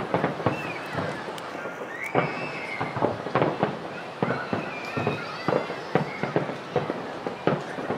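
Aerial firework shells bursting in a rapid, irregular series of sharp bangs, two or three a second, over a steady rumble of further reports.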